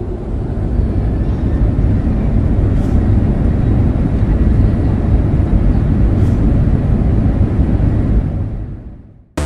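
Steady low rumble of a moving vehicle, fading in at the start and fading out near the end, with two faint ticks along the way.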